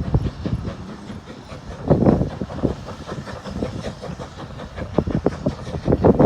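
A train running along the track, its wheels rumbling with irregular knocks and clatter over the rails.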